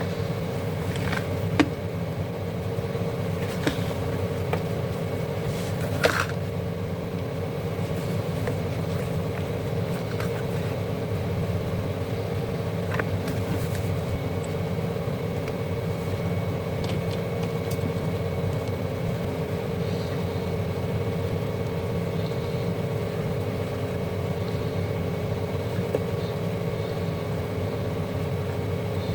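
Steady mechanical hum with a few sharp clicks in the first several seconds.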